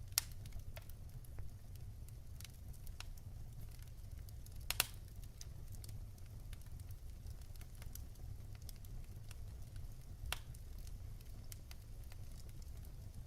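Wood fire burning in a fireplace, crackling with scattered sharp pops over a steady low rumble. The loudest pops come just after the start, about five seconds in (a quick cluster) and about ten seconds in.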